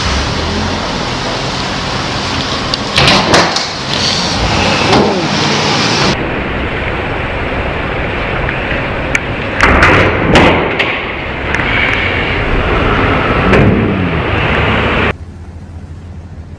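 Car road and engine noise from dashcam recordings, broken by loud bangs about three seconds in and again around ten seconds: car collisions. The sound changes abruptly twice, at cuts between clips.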